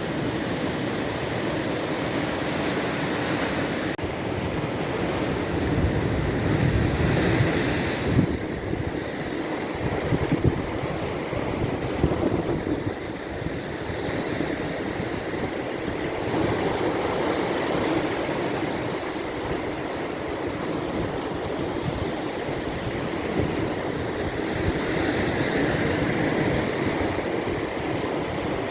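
Baltic Sea surf washing onto the shore, a steady wash that swells louder every several seconds as waves come in, with wind rumbling on the microphone.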